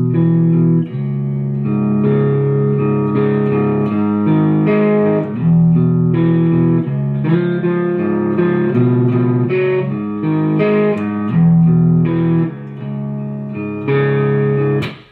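Guitar in drop D-flat tuning playing a grunge riff: picked single notes and open-string chords moving in a steady pattern. The playing stops suddenly with a click near the end.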